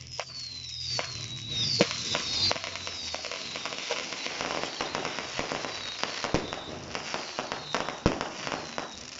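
Fireworks going off: several falling whistles in the first couple of seconds, then dense crackling with repeated sharp bangs.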